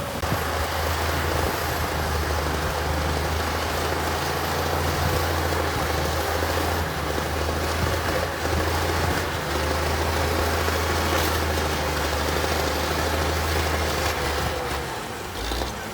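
Heavy earthmoving machine's diesel engine running steadily at a constant speed, a low hum under broad mechanical noise, easing off near the end.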